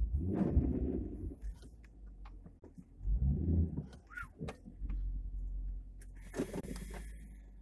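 2010 Dodge Challenger R/T's HEMI V8 rumbling through two short swells of throttle as the car creeps forward, then running low and steady before fading out, with a few sharp clicks along the way.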